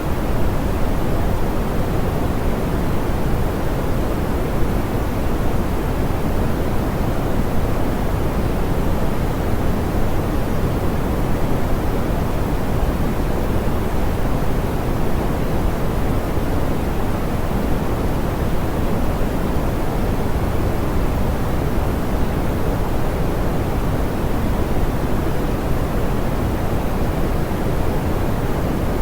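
Steady, soft pink noise: an even hiss weighted toward the low end, with no change or events.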